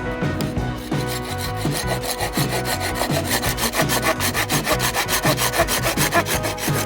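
Wood being cut with a hand saw in quick, even strokes, with background music underneath.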